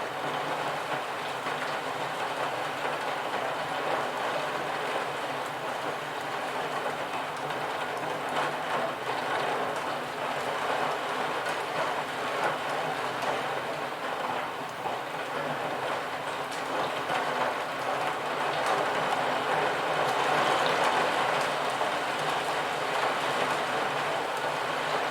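Steady rain falling, an even hiss of drops that swells slightly near the end.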